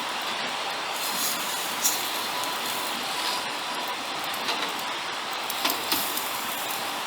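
Wood campfire burning: a steady hiss with scattered sharp pops and crackles.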